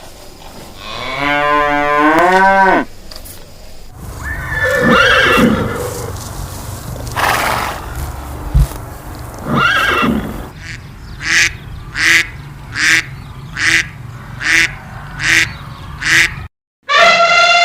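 Farm animal calls one after another: a cow mooing once, then other animal calls, including a run of about eight short calls under a second apart and a long, loud falling call near the end.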